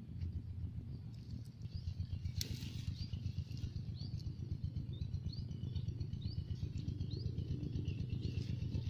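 A bird calling again and again in short rising chirps, about one every two-thirds of a second from about three seconds in, over a steady low rumble. A single sharp click comes about two and a half seconds in.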